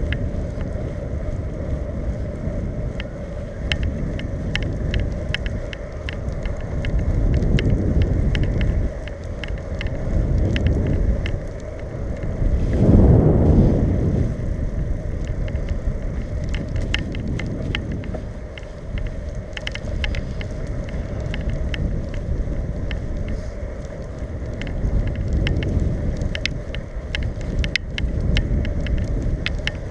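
Wind rushing over the microphone while riding a hybrid bicycle, surging and easing, with scattered light clicks and rattles; a louder swell a little before halfway through.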